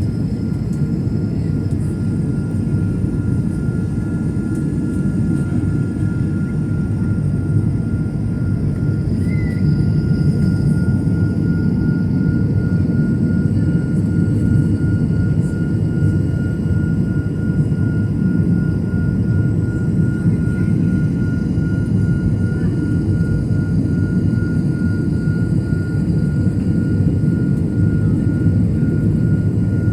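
Airliner cabin noise under engine power: a loud, steady rumble of the engines and rushing air, with a thin steady whine above it.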